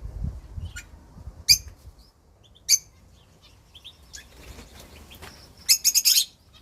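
Rosella parrots giving short, sharp, high-pitched calls: single calls about one and a half and two and a half seconds in, then a quick run of several louder calls near the end.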